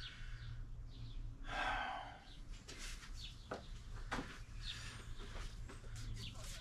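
Rustling and a few light knocks and clicks as things are handled, over a steady low hum.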